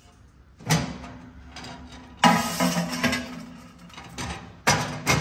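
Metal clanks and scraping from a stove being handled: three loud sharp knocks with a faint metallic ring, the middle one drawn out for about a second, like a sheet-metal door or lid being moved and shut.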